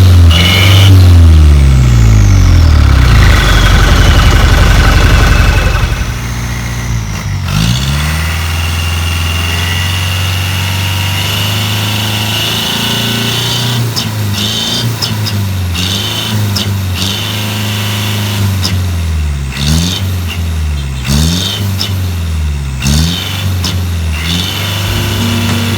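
Truck engine running through a handmade oval 'knalpot cung' aftermarket exhaust: loud and deep for the first several seconds, then settling to a steady idle, with a series of quick revs up and back down near the end.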